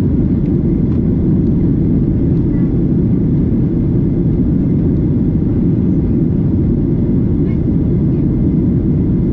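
Steady, deep rumble of cabin noise inside a Boeing 737-900ER airliner, from its CFM56-7B jet engines and the airflow around the fuselage.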